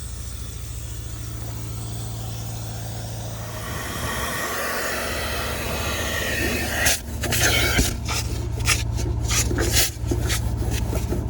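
Carpet extraction machine's vacuum motor running as its upholstery tool sucks water out of a soaked car carpet. A steady motor hum with a sucking hiss that swells about three seconds in, then stutters with repeated short breaks from about seven seconds in.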